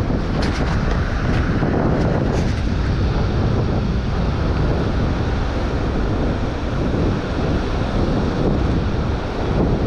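Strong wind buffeting the microphone in a steady, loud rumble, mixed with the wash of sea waves.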